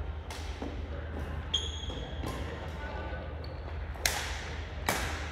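Badminton rally: sharp racket-on-shuttlecock hits, several times, the loudest about four seconds in. There is a brief high squeak of court shoes on the floor about one and a half seconds in.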